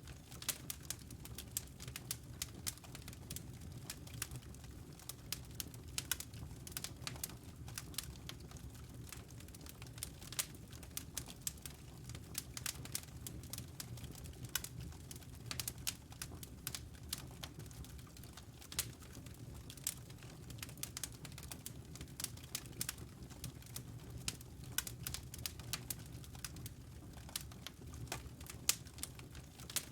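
Wood fire in a fireplace crackling: irregular sharp snaps and pops, several a second, over a steady low hum.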